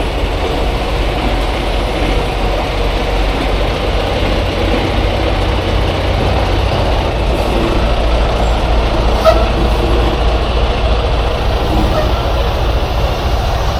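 Semi truck's diesel engine running steadily with a low rumble, with one brief click about nine seconds in.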